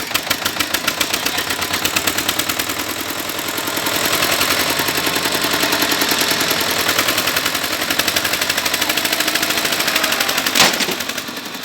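Tractor engine running hard with a rapid, even exhaust beat, getting louder about four seconds in. A single sharp bang comes near the end.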